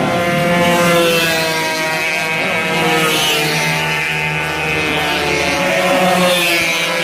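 Two-stroke racing motorcycles running at high revs, the engine pitch falling and rising again several times as they pass and change speed.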